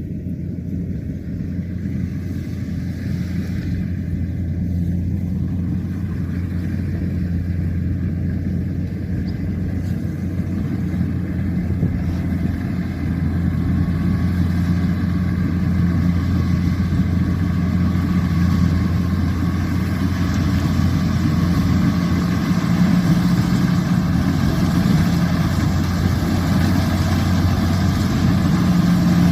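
Kubota rice combine harvester's engine running steadily with a deep hum, growing gradually louder.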